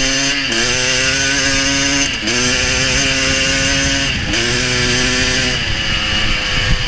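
1987 Honda CR500's two-stroke single-cylinder engine pulling hard at high revs, its pitch dropping briefly and climbing straight back three times as the rider shifts up through the gears, then easing off near the end.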